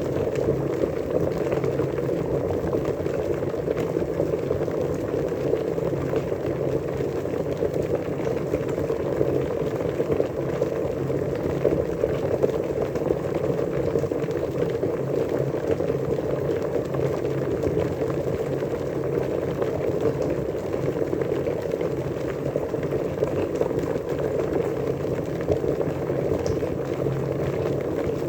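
Water at a rolling boil, a steady dense bubbling without pauses.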